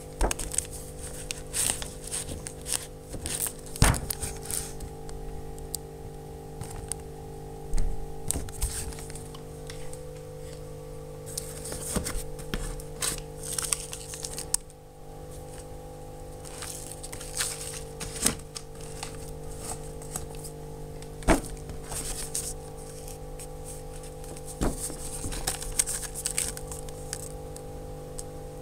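Packaging being handled: crinkling and rustling with scattered clicks and a few sharp knocks, over a steady hum.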